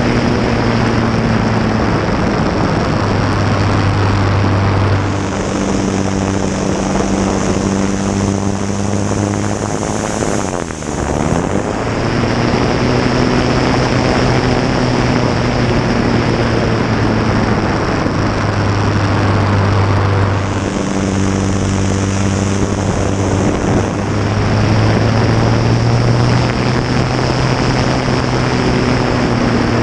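A Fournier light aircraft's propeller engine running at close range throughout aerobatics, under a haze of rushing air. Its pitch shifts a few times, and the level drops briefly about ten seconds in.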